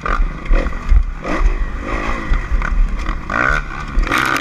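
Dirt bike engine revving up and down repeatedly, with heavy low thumps and clatter throughout.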